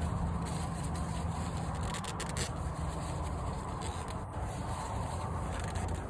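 Hands rubbing and lightly scraping on an oil filter as it is wiped clean and turned on by hand, over a steady low hum.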